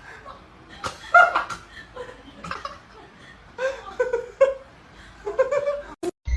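A person laughing in short, repeated bursts, ending with a sharp click near the end.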